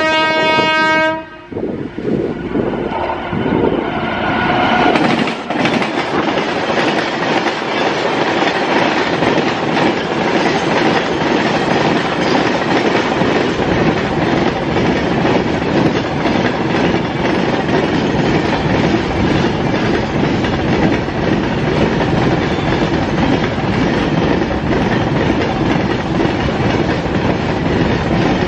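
A train horn sounds for about a second, a fainter short horn follows a few seconds later, then a passing train's wheels clatter steadily over the rails.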